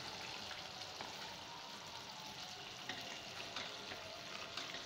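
Chicken with chana and mash daal sizzling gently in a pot, with a few small pops and a wooden spoon stirring. The ghee has separated and risen to the top: the masala is cooked down and the meat and daal are tender.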